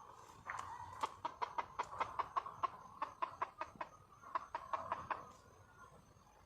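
Red junglefowl hen calling: a rapid run of short clucks, about six a second, breaking off briefly and then starting again for a few more.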